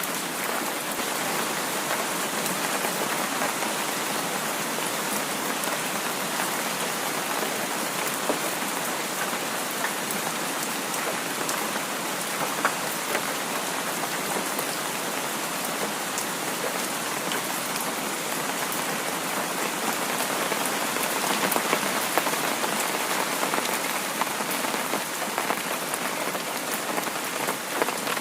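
Heavy rain falling steadily: an even hiss dotted with sharp ticks of single drops.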